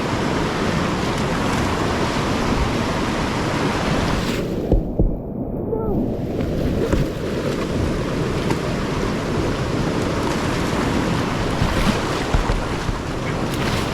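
Rushing whitewater of a creek rapid, a steady hiss. About a third of the way in, the sound goes muffled for about a second as the upper hiss drops away.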